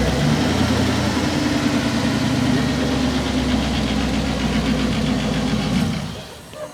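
A car engine running loud and steady close by at low revs, then dropping away sharply about six seconds in.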